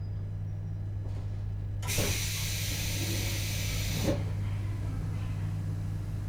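Compressed-air hiss from a JR Hokkaido 721 series electric train car, heard inside the car over a steady low hum. About two seconds in, a loud hiss starts with a thump, runs for about two seconds and cuts off with another thump.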